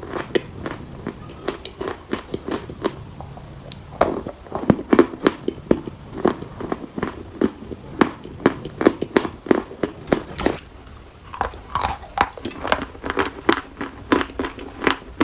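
Dry chalk being bitten and chewed, a quick irregular run of sharp crunches and cracks.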